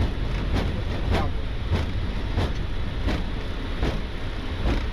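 Boeing 777-300ER rolling out on the runway after landing, heard in the cockpit: a steady low rumble with a regular thump from the wheels about every two-thirds of a second, the thumps spacing out slowly as the aircraft decelerates.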